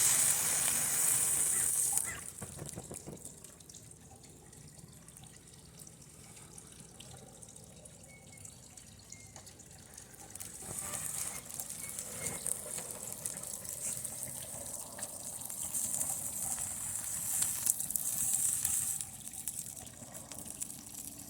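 TV circuit board and fiberglass burning under high current from a lead-acid battery, hissing and sizzling. The hiss is loud at first, drops away about two seconds in, then builds again with faint crackles from about ten seconds on.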